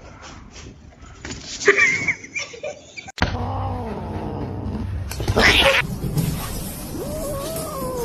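A cat yowling in long, drawn-out calls that rise and fall in pitch, with a loud noisy burst about five seconds in.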